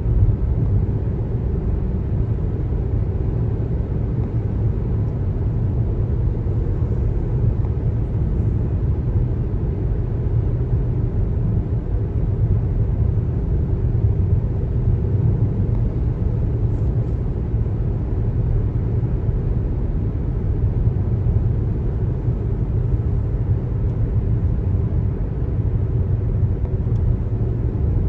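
Road noise from a car driving at speed on a highway: a steady, low rumble that stays even throughout.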